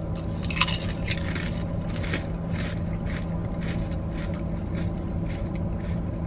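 Two people biting into and chewing crisp potato chips: one sharp crunch just over half a second in, then crunchy chewing at about two chews a second. Under it runs the car's steady low hum.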